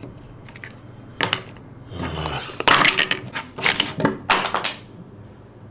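A sharp knock, then a loud run of crashing and clattering, several hard hits in quick succession for about three seconds.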